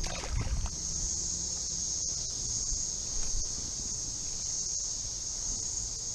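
Cicadas chorusing: a steady, unbroken high buzz over a low rumble.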